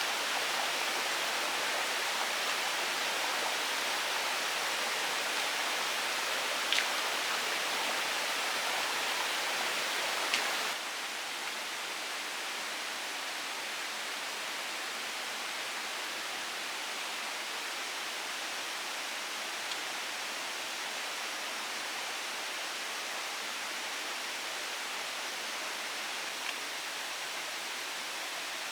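Steady hiss of water, with no single drops or splashes standing out. A few faint clicks come in the first ten seconds, and about ten seconds in the noise drops a little in level and then holds steady.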